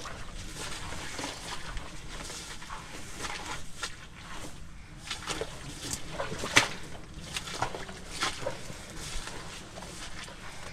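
Footsteps tramping along an overgrown forest portage trail, with brush rustling and twigs crackling irregularly, and hard breathing under a heavy load.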